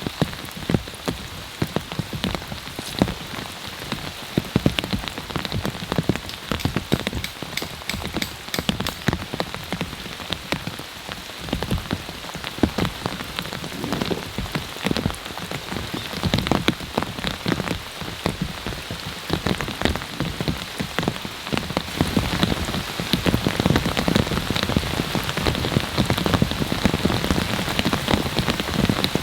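Heavy rain: a steady hiss full of sharp, close raindrop hits striking a surface. It gets louder about 22 seconds in.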